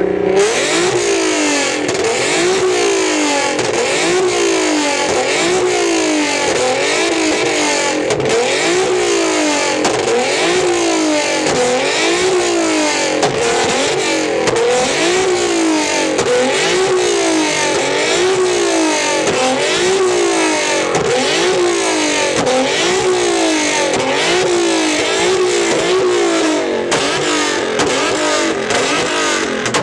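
Car engine revved up and down over and over, its pitch climbing and dropping about once every second and a half, loud and continuous.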